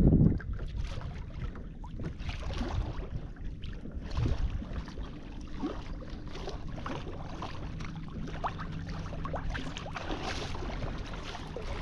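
Water lapping and sloshing against a kayak hull, with scattered small clicks and knocks and a low thump right at the start.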